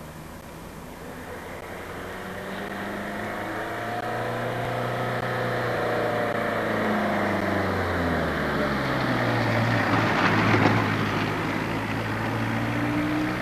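FS D345 diesel locomotive approaching and passing: its engine grows steadily louder, the engine note drops in pitch as it goes by, and a burst of wheel-on-rail noise comes as it passes about ten seconds in.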